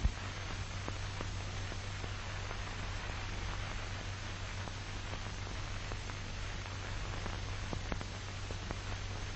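Steady hiss and low hum of an old film soundtrack between lines of narration, with scattered faint crackles.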